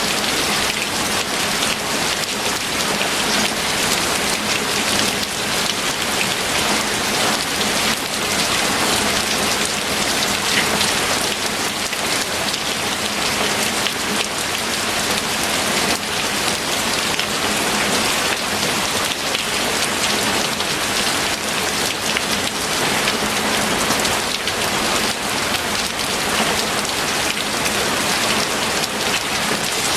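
Steady heavy rain falling, a dense even hiss of many drops.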